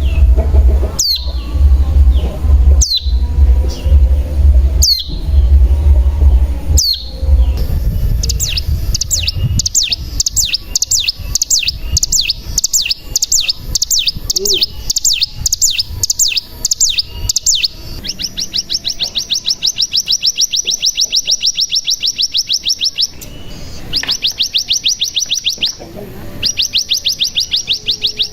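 Ciblek gunung singing: sharp, high falling calls about every two seconds over a low hum, then long, fast rattling trills of rapidly repeated high notes. These are the 'ngebren' drilling trills used as a lure to set other ciblek gunung singing.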